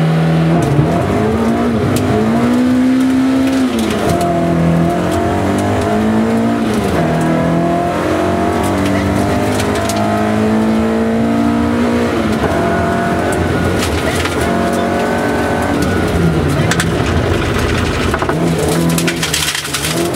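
Classic rally car's engine heard from inside the cockpit, revving hard on a gravel stage, its pitch climbing and dropping back at each gear change. Sharp rattles of stones against the body come in near the end.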